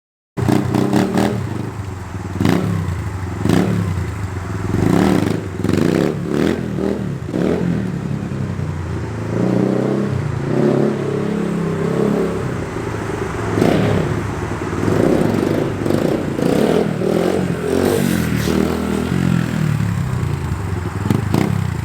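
SSR 150 dirt bike's single-cylinder four-stroke engine, ridden hard and revved up and down again and again as the rider throttles up for one-foot-down wheelies. Clattering knocks come through over the engine. The sound cuts in suddenly about half a second in.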